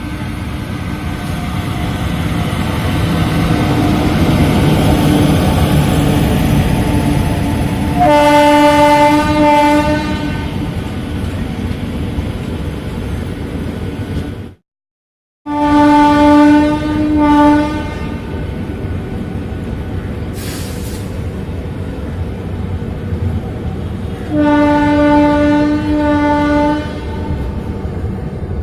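Rajdhani Express train passing slowly, its carriages rumbling steadily, with the locomotive's horn sounding several times: a long blast about a third of the way in, two blasts just after a brief dropout halfway, and another long blast near the end.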